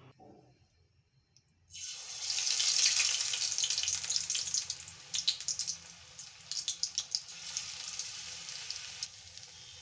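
Battered cauliflower pakoras dropped into hot oil in a kadai, sizzling and crackling. The sizzle starts suddenly about two seconds in, is loudest at first, then settles to a steadier sizzle.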